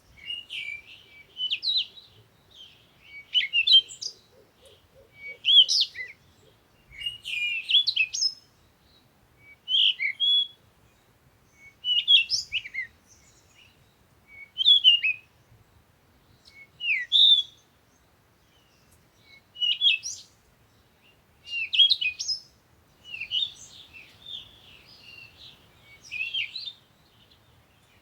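Bird song: short, high chirping phrases repeated about every two seconds, with a stretch of softer, continuous twittering near the end.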